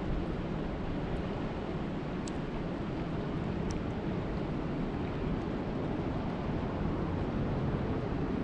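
Steady rushing noise of a rainstorm, heaviest in the low end like wind buffeting the microphone, with a couple of faint high ticks.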